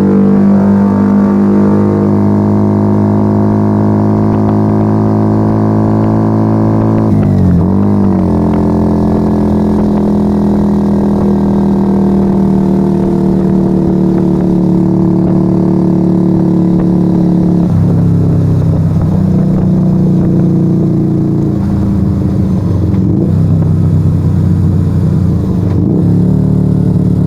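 Yamaha XV125 Virago's 125 cc V-twin heard while riding, loud through a straight-pipe Turbo Kit exhaust with the dB killers removed. It runs at a steady, slowly falling engine speed with a quick shift in pitch about seven seconds in, like a gear change. From about eighteen seconds in the note drops lower and turns uneven.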